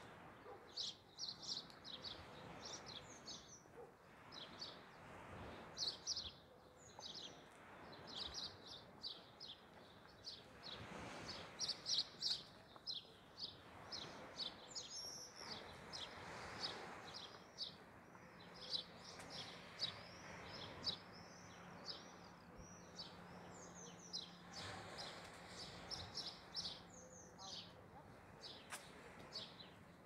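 Small birds chirping continuously, a dense chorus of quick, high, repeated calls. A faint steady low hum joins in a little past the middle.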